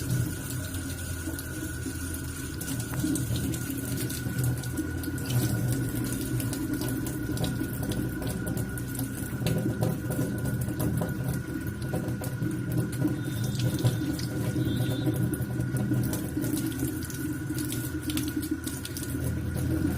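Water running steadily, with a thin steady tone underneath.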